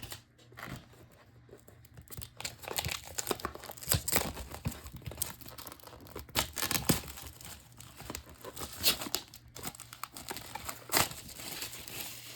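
Plastic shrink-wrap being torn and crumpled off a sealed trading card box by hand: an irregular run of crinkling and tearing, with louder crackles here and there.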